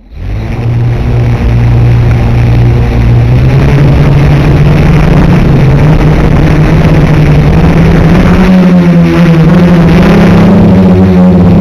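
Quadcopter's Turnigy 2213N brushless motors and propellers whirring in flight. The sound swells up within the first second, and the pitch rises a few seconds before the end as the throttle goes up.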